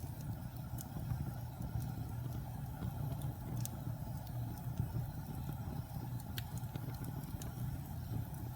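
Wood fire in a fireplace burning with a steady low rumble and scattered sharp crackles.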